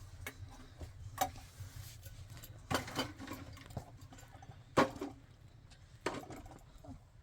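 A handful of sharp knocks and clatters at irregular intervals, the loudest about two-thirds of the way through, over a low steady hum.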